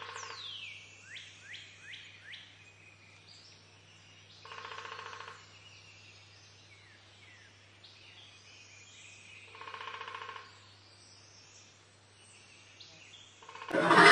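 Stock swamp ambience: birds chirping with quick falling whistles, and a buzzing trill that comes three times about five seconds apart over a faint steady hum. Just at the end a loud, harsh sound suddenly begins.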